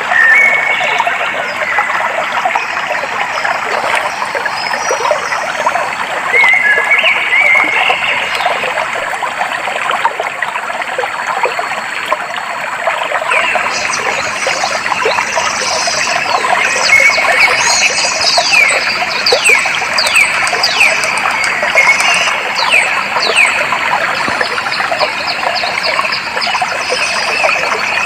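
Stream water trickling and flowing steadily, with birds calling over it: a few short whistled notes in the first half, then from about halfway a bird repeating quick notes that fall steeply in pitch.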